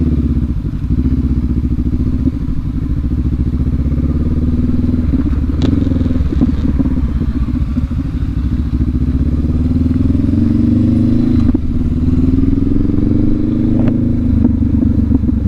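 Adventure motorcycle engine running under way on a trail, its revs climbing twice in the second half with a brief dip between, with a few clicks and knocks.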